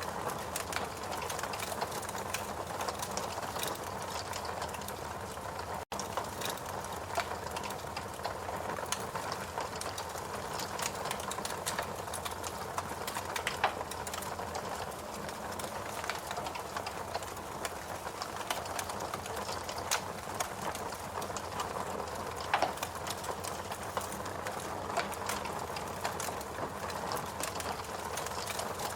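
Fireplace crackling, with irregular small pops and snaps over a steady hiss-like bed of sound. The sound cuts out for an instant about six seconds in.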